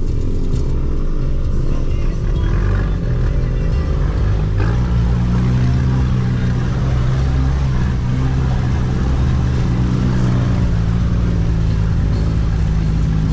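Off-road vehicle engine running under load. Its pitch rises about five seconds in and then holds steady.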